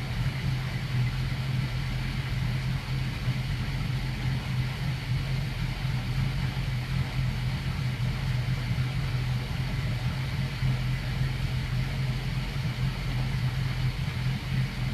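Boat's inboard engines idling steadily while warming up to temperature, a constant low drone.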